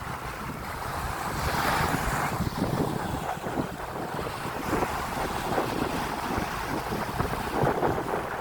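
Sea surf breaking and washing on the shore, swelling louder about two seconds in, with wind buffeting the microphone in a low rumble.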